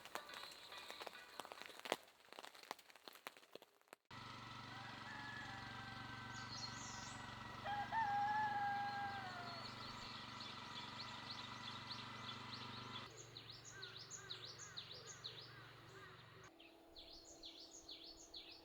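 Outdoor ambience in a few abrupt cuts: a dense crackling patter at first, then a steady low hum with a few gliding calls, then birds chirping in quick repeated notes.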